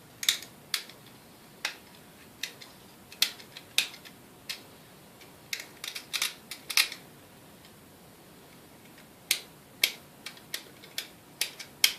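Short, irregular scrapes and clicks of a tool scratching green corrosion off the resistor of a Sunbeam Mixmaster Model 7B mixer to reach bare metal, with a pause of about two seconds partway through.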